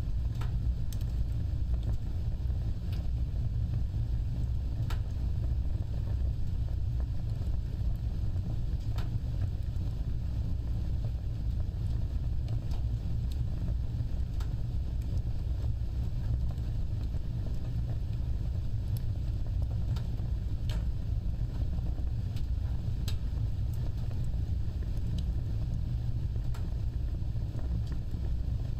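Fire burning with a steady low rumble of flame, broken by sparse, irregular sharp crackles and pops.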